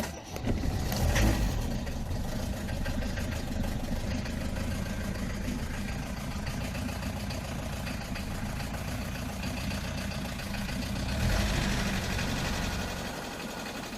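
Mercedes-Benz 220 D's four-cylinder diesel engine starting after the glow plugs have preheated it, catching about a second in and then idling steadily, a little louder for a couple of seconds near the end.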